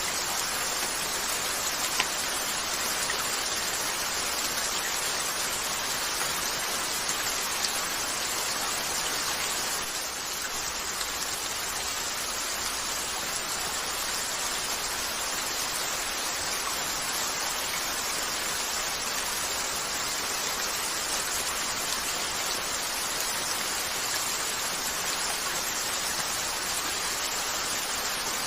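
Steady rain falling, an even hiss, with an occasional sharp pop from a crackling fireplace, twice in the first eight seconds.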